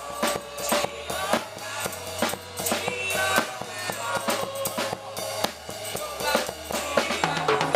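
Gospel band music driven by a drum kit: kick drum, snare and rimshots struck in a quick steady beat over a low bass line.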